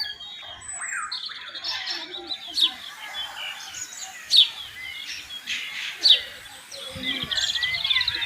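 Many aviary birds chirping and calling at once. Three loud, sharp, downward-sweeping calls stand out about a second and a half apart, and a fast rattling trill comes near the end.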